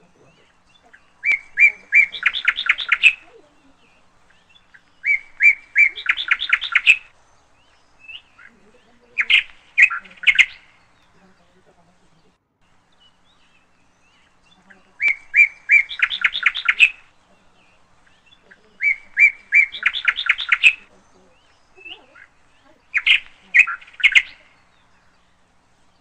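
Bird calls: bursts of quick, chirping notes, each lasting a second or two, coming in a group of three that repeats in exactly the same pattern about halfway through, as from a looped recording.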